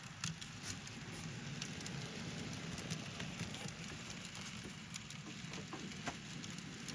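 N-scale model train running on the layout's track: a steady low rolling rumble with scattered light clicks.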